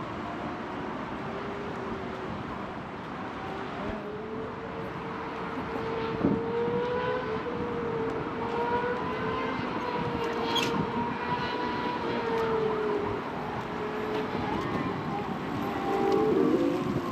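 A distant siren wailing, one long slowly wavering tone that fades in a few seconds in and dies away before the end, over steady traffic noise.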